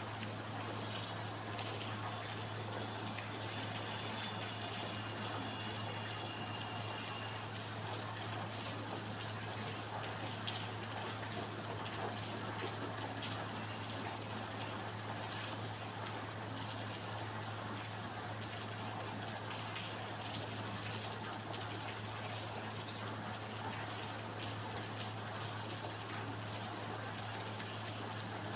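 Steady rainfall with many individual drops ticking, over a constant low hum.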